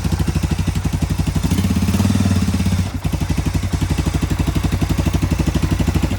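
Engine of a 1987 250SX running on its first start after a rebuild, with a rapid even beat of firing pulses; it picks up briefly about one and a half seconds in, then drops back to idle near the middle. It runs irregularly because of a cracked plastic intake.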